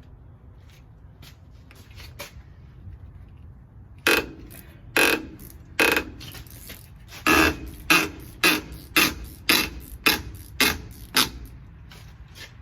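Hammer blows on steel truck brake parts: about eleven sharp, loud metallic strikes, each with a brief ring. They start about four seconds in, the first three about a second apart, then quicker at roughly two a second; before them, only faint clicks of handling.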